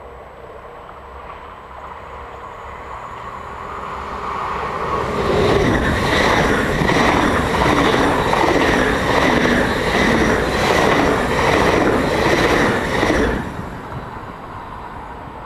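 A Dutch NS double-deck electric passenger train passing at speed close by. It grows louder over about five seconds, then goes by with wheel-on-rail noise and a steady high whine for about eight seconds, and fades quickly as it clears.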